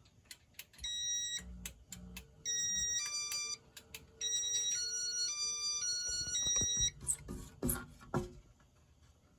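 Electronic beeper of a Casablanca ceiling fan control playing a short tune of stepping tones as the fan is switched into demo mode. Several clicks are heard, with a cluster of sharper clicks near the end.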